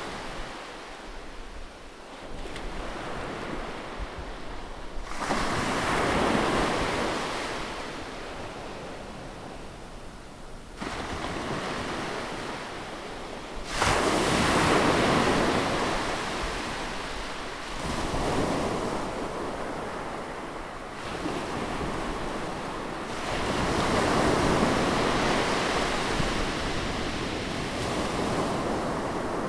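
Sea waves breaking on a beach, the surf swelling and falling away every few seconds, with one sudden, louder break about halfway through.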